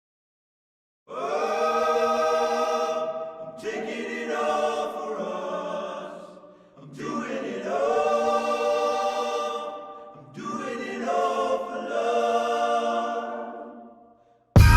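Choir-like voices singing long, held notes in four swelling phrases, unaccompanied. Just before the end, loud electronic music with a beat cuts in abruptly.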